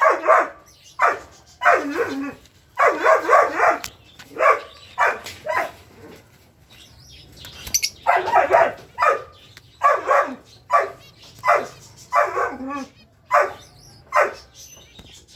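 A dog barking repeatedly, an irregular run of loud barks with a few short pauses between groups.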